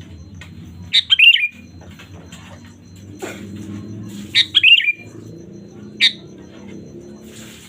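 Sooty-headed bulbul calling: two short, bubbly, warbling phrases about three seconds apart, then a single brief note about six seconds in. A steady low hum runs underneath.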